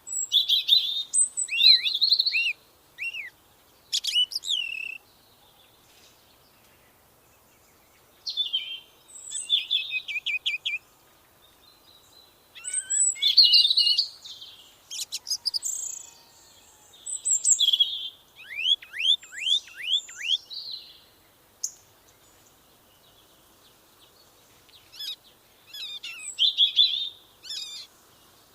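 Songbirds singing in separate phrases of quick high chirps and whistles, with short quiet gaps between them. About two thirds of the way through, one phrase runs as a quick series of falling whistled notes.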